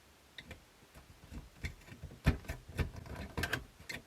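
Scattered small clicks and knocks of tools and plastic parts as a glued-in tape drive motor is worked loose from a cassette deck mechanism. Quiet for about the first second, then a run of irregular clicks, the loudest knock a little past the middle.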